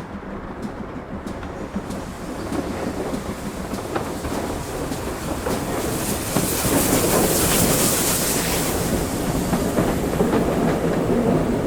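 A steam-hauled train running past, its wheels clattering over the rail joints. It grows steadily louder through the first half as it draws near, then holds close and loud, with a burst of hiss in the middle.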